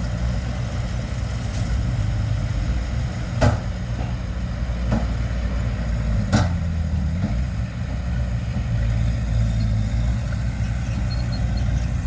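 Heavy diesel earthmoving machine engine running steadily at a low, even pitch, with three short metallic clanks in the middle.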